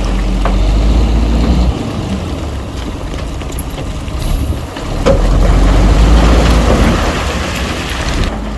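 Diesel engine of heavy earthmoving machinery running with a deep rumble. It eases off about two seconds in and works hard again from about five seconds in, with a few short knocks.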